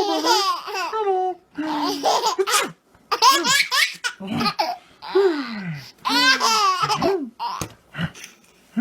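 Baby laughing hard in repeated high-pitched bouts, each a second or so long with a short gasp between them, ending in a few shorter bursts near the end.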